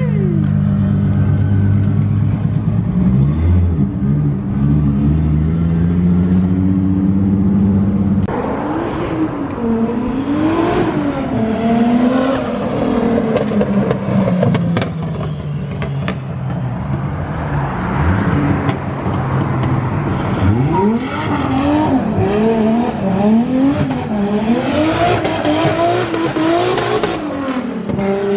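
2JZ straight-six engine in a swapped Nissan 240SX, running at a steady drone for about eight seconds, then accelerating and easing off again and again, its pitch rising and dropping in repeated sweeps.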